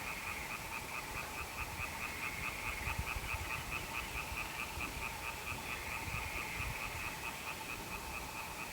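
A chorus of frogs calling in fast, steady trains of short pulses, about four to five a second, that carry on without a break.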